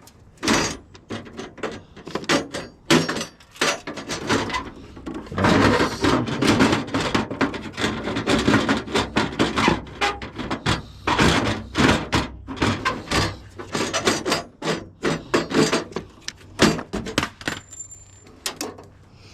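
Rapid, irregular knocking and clattering of hard parts as a water heater is taken apart for scrap, busiest in the middle.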